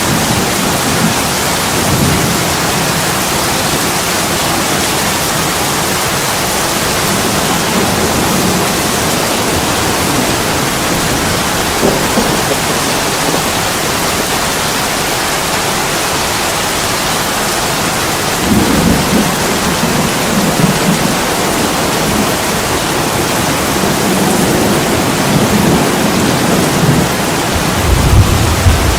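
Heavy rain pouring steadily, with low rolls of thunder rumbling about two-thirds of the way through and again near the end.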